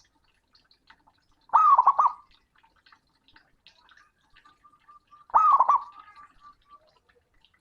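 Male zebra dove (perkutut) calling loudly: two bursts of quick, looping coos, each about half a second long, about four seconds apart.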